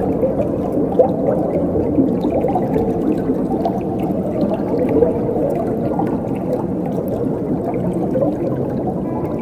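Flowing water running steadily, a low, dense rush of water.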